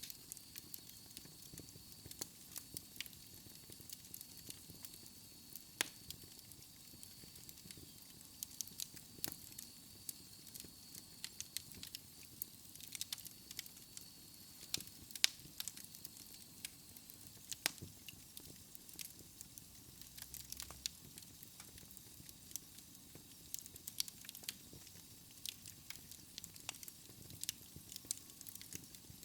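Wood fire crackling in a fireplace: irregular snaps and pops, some sharper and louder than others, over a soft steady hiss.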